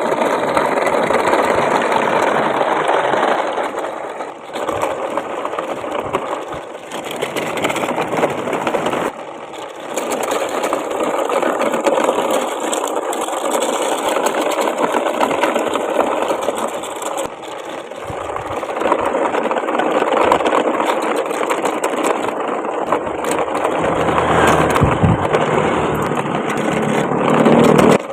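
A small motor whirring with a rattling of plastic parts, its level swelling and dipping several times.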